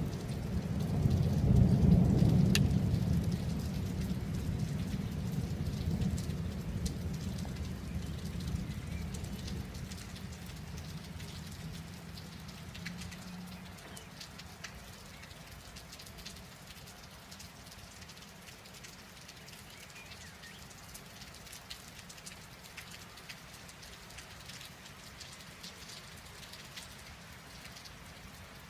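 Thunder rumbling, loudest about two seconds in and dying away over the next ten seconds or so, over steady rain with individual drops ticking on a surface. The rain carries on alone after the thunder fades.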